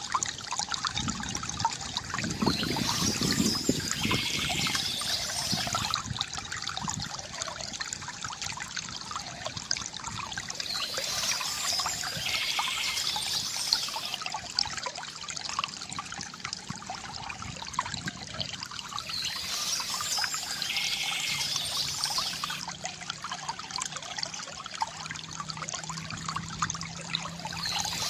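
Water from a bamboo fountain trickling and gurgling steadily, with a brief higher sound that comes back about every eight seconds.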